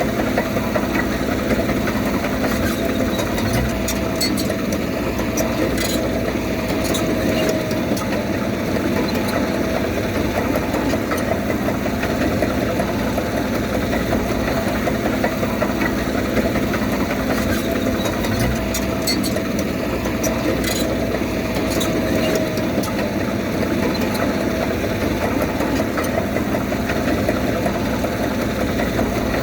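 Heavy diesel engine of earthmoving machinery running steadily, with a few faint clicks twice along the way.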